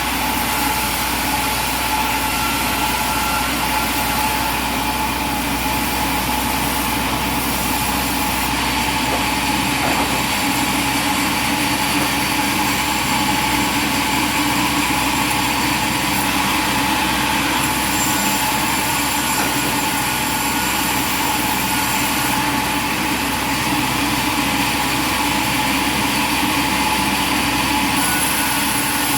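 Sawmill machinery running steadily: an engine-driven drone with a constant high tone.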